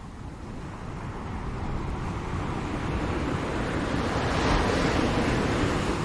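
Ocean waves breaking on a shore: the surf rises slowly to a crest about four to five seconds in, then begins to ease off.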